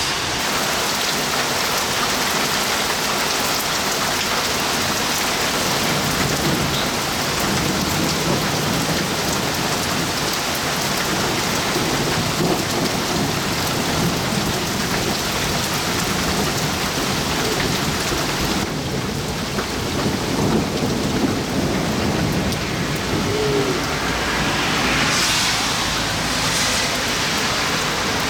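Steady downpour of rain during a thunderstorm, with thunder rumbling low underneath through the middle.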